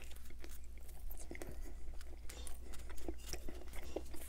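Close-miked biting and chewing of a soft bread roll, with many small, irregular wet mouth clicks.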